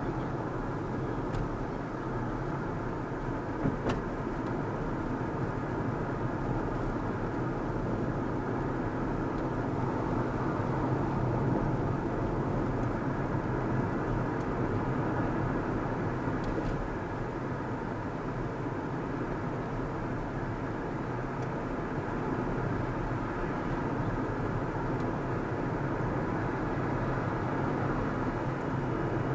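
A car driving on the road: steady engine and tyre noise, with a short click about four seconds in.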